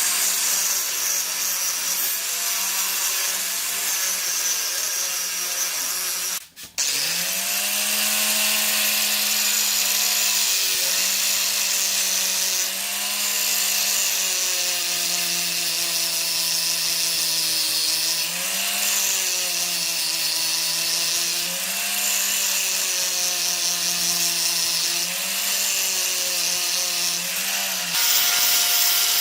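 Electric power tool motor running while grinding rust off steel pliers, with a hissing scrape of abrasion over a hum that wavers in pitch as it works. Just after six seconds it cuts out briefly and spins back up.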